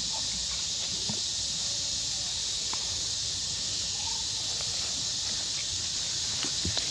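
Steady high-pitched drone of insects, with a few faint clicks and knocks scattered through it and a small cluster of them near the end.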